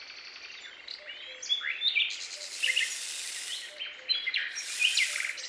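Birds chirping, many short calls over a faint hiss, with two stretches of high hissing about two and a half and four and a half seconds in.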